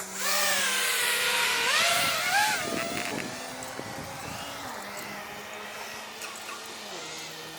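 Whine of a radio-controlled plane's twin electric motors and propellers, the pitch sliding up and down with the throttle. It is loudest for the first couple of seconds, then grows fainter.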